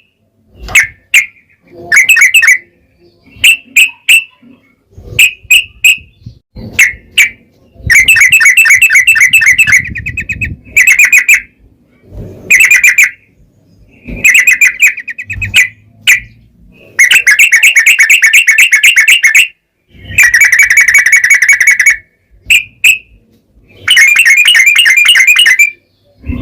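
Yellow-vented bulbul (trucukan) song: short chirping phrases alternating with several long, rapid trills, each lasting one to two and a half seconds.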